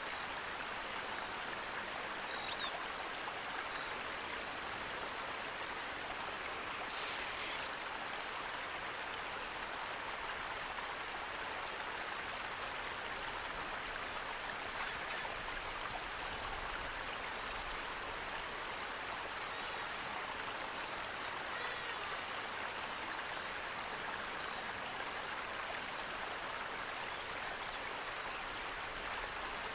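Steady rushing water of a stream or small waterfall, an even unbroken hiss, with a few faint brief bird chirps now and then.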